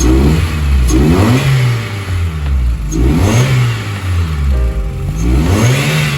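Car engine revved in short blips about four times, the pitch climbing and dropping back each time.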